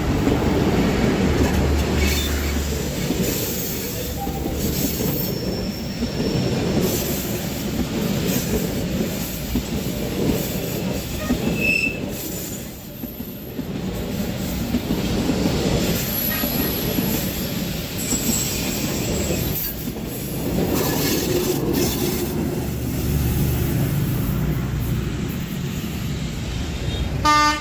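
Diesel train passing close by: a continuous heavy rumble of wheels on rails and railcars, with a few brief high wheel squeals.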